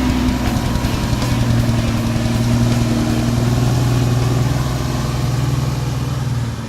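Diesel engine of a Kenworth triaxle dump truck running steadily, dropping away sharply near the end.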